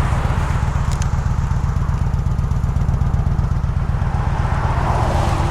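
2022 Kawasaki Vulcan 900 Classic LT's V-twin engine running steadily under way, with a brief click about a second in.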